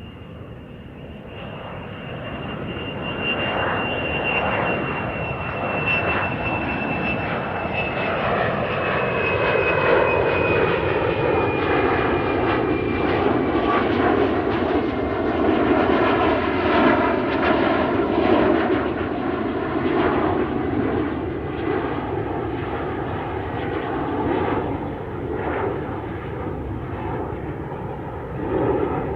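Airplane landing: the engine noise grows louder over the first few seconds and then stays loud and steady, with a high whine that slowly falls in pitch through the first half.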